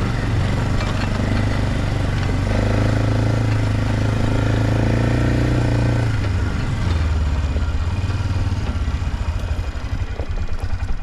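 Four-wheeler (ATV) engine running steadily, then dropping back to a lower, pulsing idle about six seconds in.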